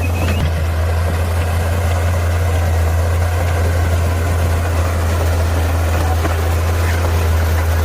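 Heavy diesel engine of earthmoving equipment running steadily, with a deep, even low hum.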